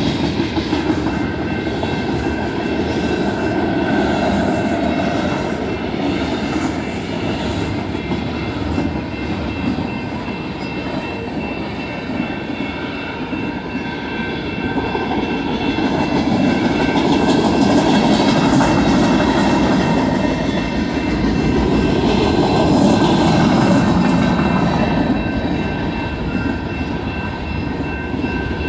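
Freight train cars rolling past at speed, a steady rumble of wheels on rail, growing louder about two-thirds of the way through. Several steady high tones ring over the rumble.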